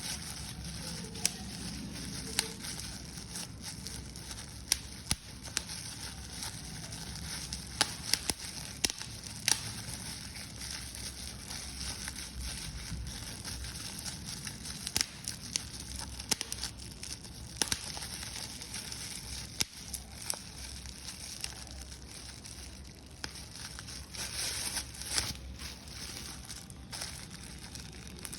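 Paper being crumpled and crushed by hand: a steady crinkling with frequent sharp crackles.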